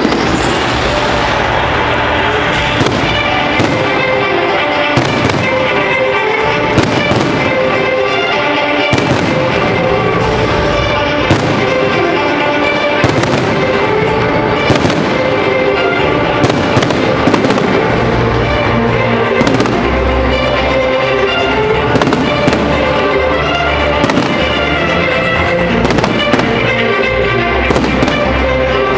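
Fireworks display, shells bursting in a rapid, irregular string of sharp bangs throughout, with music playing underneath.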